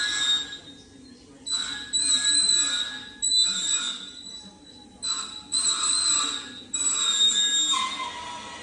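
A high-pitched power tool whining in about six short on-off bursts of up to a second each.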